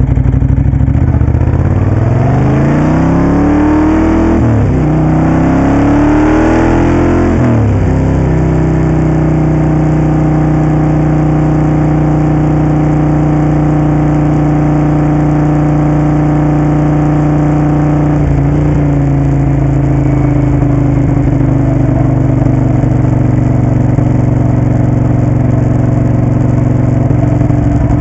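Moto Guzzi Café Sport's V-twin engine on the move, pulling up through the gears: two rises in pitch, each cut off by an upshift about four and a half and seven and a half seconds in. It then runs steadily at an even cruising speed.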